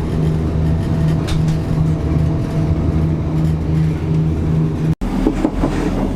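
A steady engine hum with a low pulsing drone, like a vehicle running. Near the end it cuts off abruptly into a different rumbling noise.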